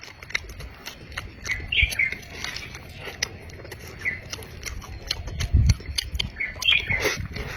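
Close-miked eating: wet chewing and lip-smacking with many quick clicks and a few short squeaky squelches.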